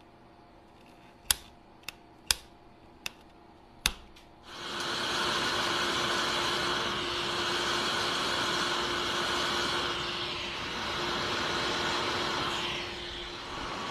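A few sharp clicks of small tools, then a hot air rework station's blower switches on about four and a half seconds in and runs steadily with a faint whine.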